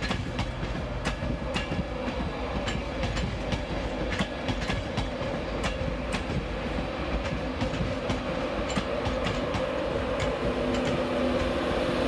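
LNER InterCity 225 train of Mark 4 coaches running past, its wheels clicking irregularly over rail joints and pointwork above a steady rumble. Near the end a steady hum of several tones comes in as the Class 91 electric locomotive draws level.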